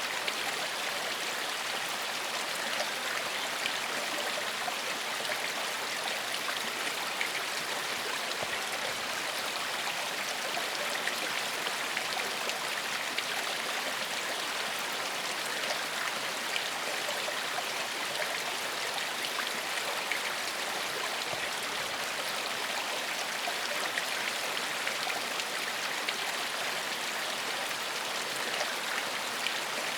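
Forest stream flowing over rocks, a steady rush of water with fine splashing.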